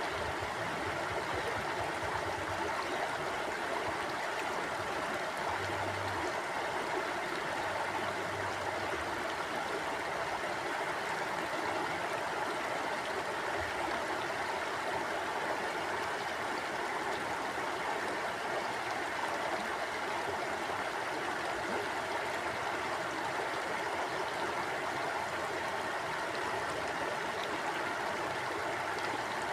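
A small river or stream flowing over rocks: a steady, even rush of water.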